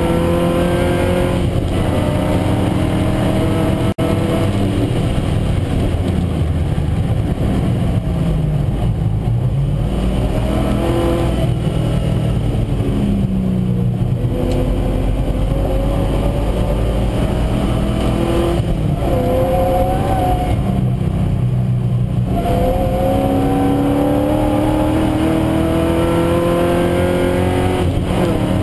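Triumph TR7 V8 engine heard from inside the cabin, pulling hard through the gears on track: its pitch climbs repeatedly and drops back at each gear change or lift for a corner.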